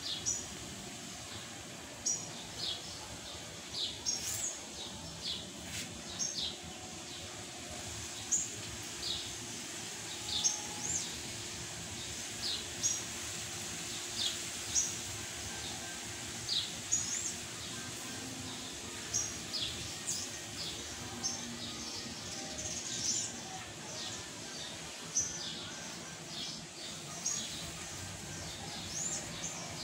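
Small birds chirping: short, high chirps, a couple each second at uneven spacing, over steady background noise.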